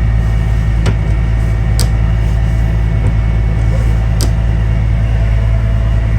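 Sailing catamaran's Volvo Penta D1-30 diesel engine running steadily under way, an even drone, with a few light clicks about one, two and four seconds in.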